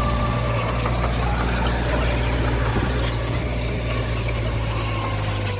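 Heavy diesel earthmoving machinery running steadily with a deep, even engine sound, and a few light clicks about three seconds in and near the end.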